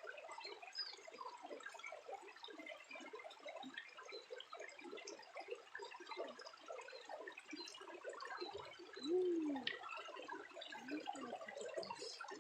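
Water trickling and dripping: a dense, steady crackle of small drops, with one short low sound that rises and falls in pitch about nine seconds in.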